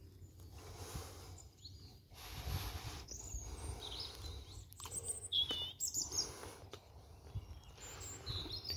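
Birds chirping on and off: short high calls, busiest between about three and six seconds in and again near the end, over a low rumble.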